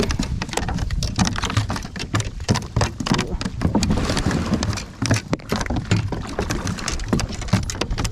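Irregular splashing, dripping and knocking as a hooked smallmouth bass thrashes and is landed beside a kayak, over a low rumble of handling noise.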